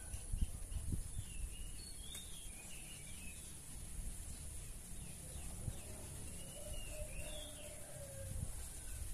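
Birds chirping in short warbled phrases, in two bouts a few seconds apart, over a low rumble with a few soft thumps and a faint steady high tone.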